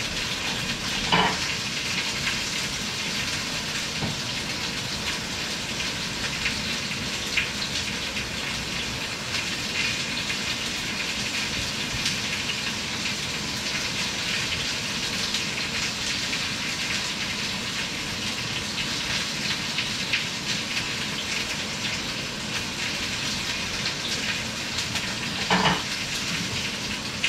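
Food sizzling in a pan on a stovetop: a steady frying hiss with fine crackle.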